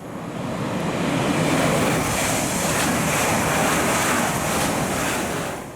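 Train passing close by at a station, a loud steady rush of wheel and air noise. It builds over the first second and falls away near the end.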